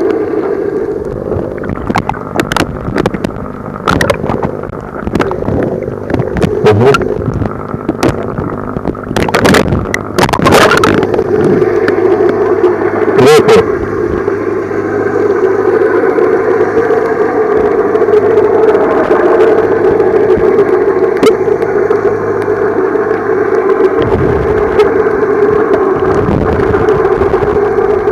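Muffled underwater noise from a camera in the water while snorkelling: a steady low hum, with a run of sharp knocks and splashes in the first half.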